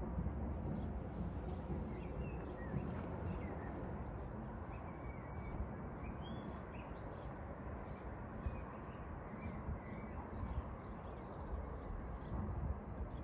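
Outdoor ambience: a steady low background rumble, with birds chirping repeatedly in short calls over it.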